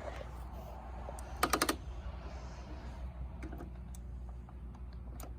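Small plastic clicks and clatter from handling a toy garbage truck. A quick run of four or five sharp clicks comes about a second and a half in, then a few lighter scattered clicks.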